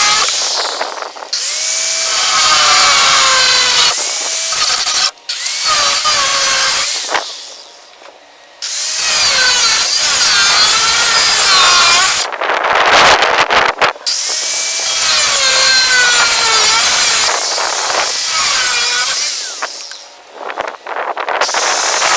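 Power tool working the steel of an old saw blade, with a wavering squeal over a dense hiss. It runs in long passes that stop briefly about five seconds in, at eight seconds, around thirteen seconds, and near the end.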